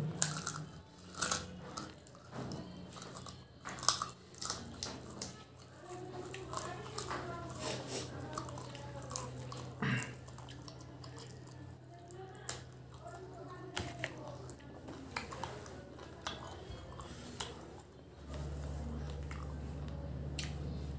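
Close-up chewing and biting on bone-in chicken pieces, a string of short wet smacks and crunches. Near the end a steady low hum sets in.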